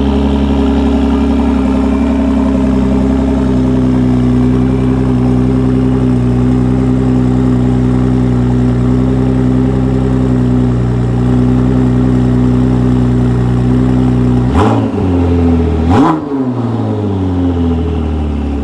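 Ford GT's twin-turbo 3.5-litre V6 idling steadily through its twin centre exhausts. Near the end it is revved twice in quick succession, about a second and a half apart, each a sharp rise and fall in pitch, then drops back to idle.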